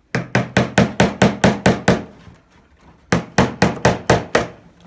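Hammer driving nails into wood: two runs of rapid strikes, about four or five a second, about nine and then about seven after a short pause.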